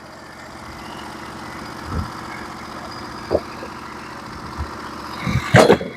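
The Norwood HD36v2 bandsaw mill's gas engine idling steadily. A few dull thumps sound over it, the loudest a sharp knock near the end.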